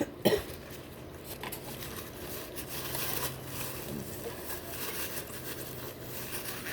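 Close-miked eating noises: chewing with crinkly rustling, after a sharp knock right at the start.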